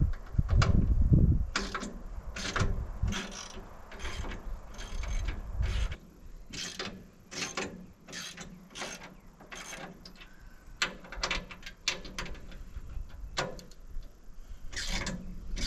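Ratchet wrench clicking in short strokes, irregularly one or two a second, as bolts on a sawmill frame are worked loose or snugged for squaring, with a low rumble under the first few seconds.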